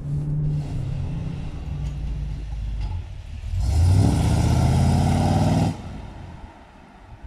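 Car engine running steadily, then revving loudly with rising pitch for about two seconds before dropping back down.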